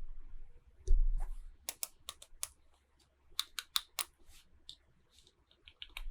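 Small plastic toys and packaging being handled: a dull thump about a second in, then quick runs of sharp plastic clicks and taps, with fainter clicks near the end.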